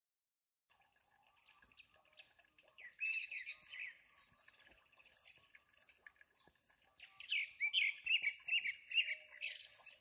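Small birds chirping and singing in short repeated high phrases, starting out of silence within the first second and growing louder from about three seconds in.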